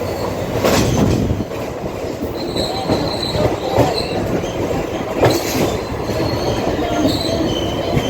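Indian suburban local train running on the rails with a steady rumble, occasional clanks, and brief high wheel squeals a few seconds in and again near the end.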